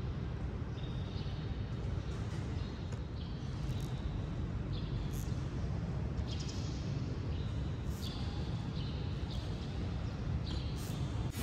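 Steady low rumble of room noise with repeated short, high-pitched bird chirps scattered through it.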